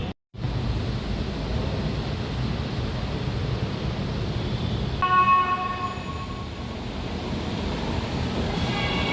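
Light-rail train of the Jakarta LRT running with a steady rumble. A brief high squeal of several tones sounds about five seconds in.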